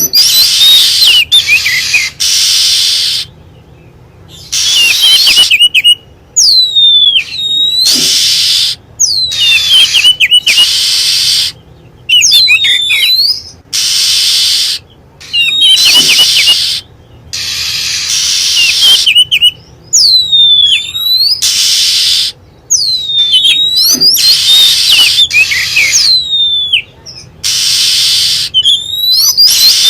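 Oriental magpie-robin calls played as a looping bird-lure recording: clear whistles that swoop down in pitch, alternating with loud harsh rasping notes, repeating every couple of seconds.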